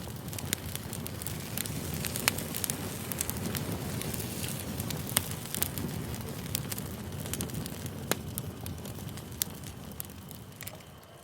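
Campfire burning with a steady low rumble and scattered sharp crackling pops, fading near the end.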